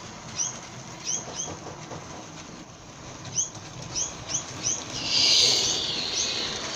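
A small bird chirping repeatedly, short high calls a few times a second. About five seconds in a loud hiss comes up, lasts about a second and then eases off.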